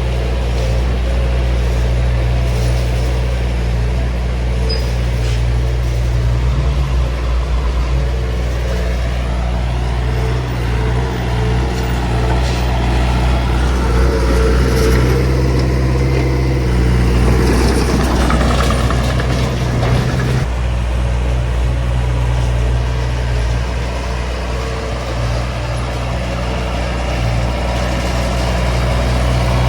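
Small crawler bulldozer's diesel engine (Komatsu D20) running steadily while it works soil, with a rougher, noisier stretch about two-thirds of the way through.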